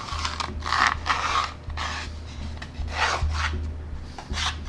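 A small wooden piece being worked by hand with an abrasive: a handful of uneven scraping strokes over a low, steady hum.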